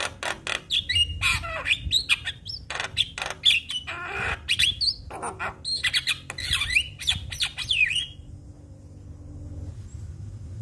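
Javan myna (jalak kebo) calling: a quick run of clicks, then harsh squawks mixed with whistles that slide up and down. The calling stops abruptly about eight seconds in, leaving a low background hum.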